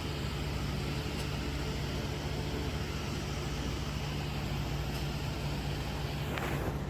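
Steady hiss with a low electrical-sounding hum underneath, unchanging throughout; no typing or keystrokes are heard.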